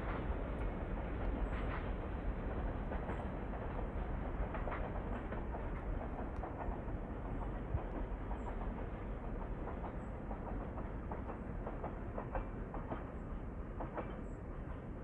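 Freight train's cars rolling past, a steady rumble with irregular clicking of the wheels over the rails, easing slightly near the end.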